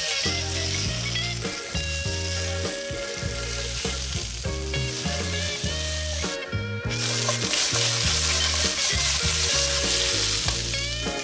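Potato wedges sizzling as they fry in a nonstick pan, turned now and then with a silicone spatula. The sizzle dips briefly a little past halfway, then comes back louder. Soft guitar music plays underneath.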